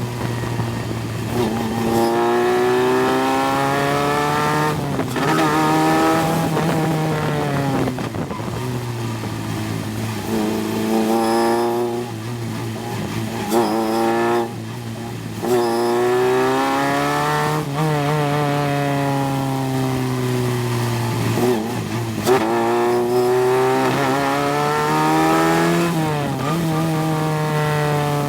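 Single-seater race car engine heard from the cockpit at full throttle, its pitch climbing through each gear and dropping sharply at each of several quick upshifts, with falling stretches where it slows for corners.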